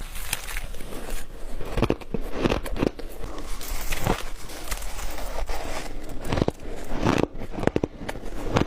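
Close-up chewing of a mouthful of soft, dry shaved ice: dense, irregular crunching with squeaky, grainy crackles, bite after bite.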